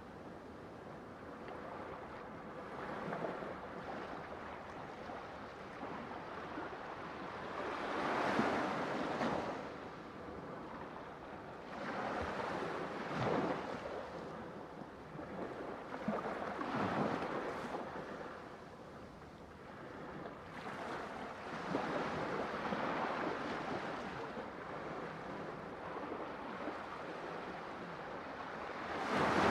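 Ocean waves breaking and washing in, a steady rush of surf that swells louder every few seconds as each wave comes in.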